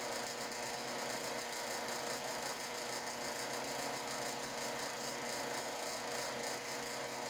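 Steady whir of an electric fan: an even hiss with a constant hum that does not change.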